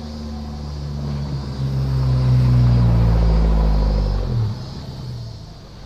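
A car's engine passing close by, with a low, rumbling note that builds to its loudest around two to four seconds in. It then drops away sharply, its pitch falling as the car goes past.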